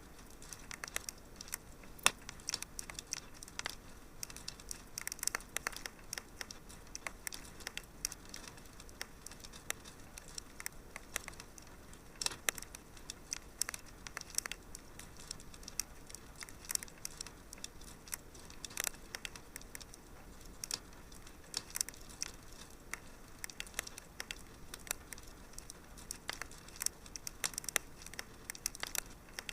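Wood fire crackling in a fireplace: a steady stream of irregular sharp pops and snaps over a soft hiss, with one louder pop about two seconds in.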